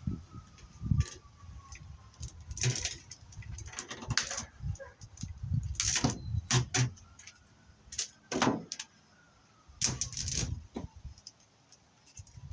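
Irregular metallic clinks, rattles and scrapes of BX armoured cable being handled and worked apart to free the copper wire inside, in short bursts with pauses between, fading to near quiet toward the end.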